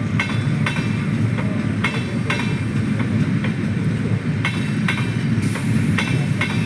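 Coaches of the Amrit Bharat Express train rolling out of the station: a steady low rumble with wheels clacking over rail joints at uneven intervals.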